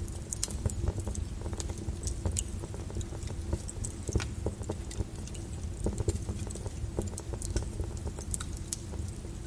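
Wood fire crackling, with irregular sharp pops and snaps scattered throughout, over a steady low rumble and the even hiss of rain on a window.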